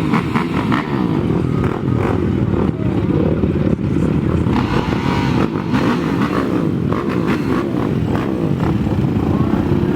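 Several racing ATV engines revving hard together, their pitches rising and falling and crossing as the quads accelerate and shift, with scattered clicks and clatter.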